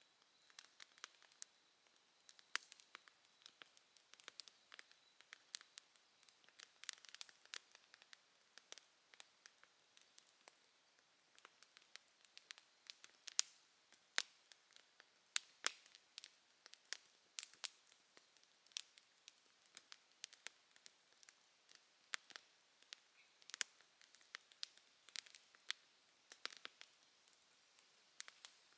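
Bonfire crackling, with irregular sharp pops and snaps several times a second, some much louder than others. A faint, steady insect trill sounds underneath during the first few seconds.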